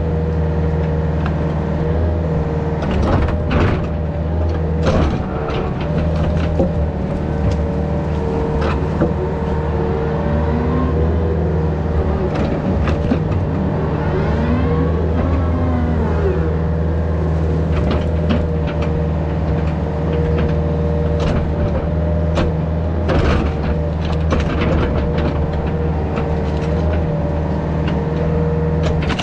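Yanmar VIO50 mini excavator's diesel engine running steadily under load with a steady hydraulic whine, and scattered sharp cracks and knocks, several about 3 to 5 seconds in and again about 23 to 25 seconds in.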